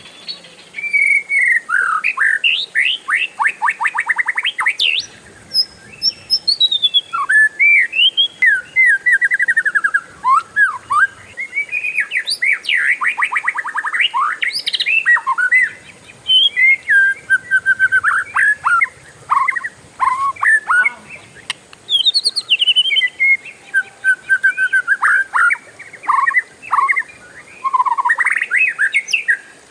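Oriental magpie-robin singing a loud, varied song of whistled phrases and rising and falling notes, broken up by fast rattling trills (the 'ngeroll' roll) and a few short pauses.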